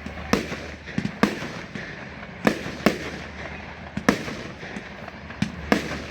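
Aerial fireworks bursting, about eight sharp bangs at uneven intervals, some in quick pairs.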